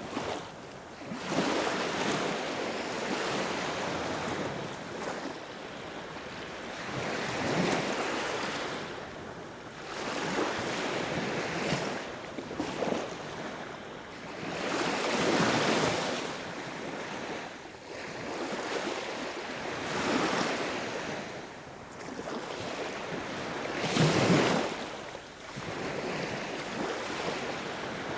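Sea waves breaking and washing in, a rushing hiss that swells and fades every few seconds, with the loudest surges past the middle and about four-fifths of the way through.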